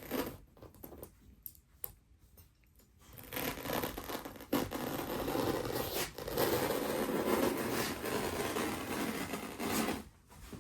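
A knife slicing through a sheet of artificial grass, a long rasping tear starting about three seconds in and running until near the end, with a short break around the middle.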